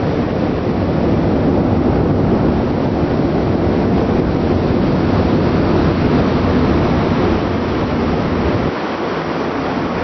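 Steady rushing noise of wind buffeting the microphone over the rumble of a ship at sea, heaviest in the low end. The deepest part of the rumble drops away briefly near the end.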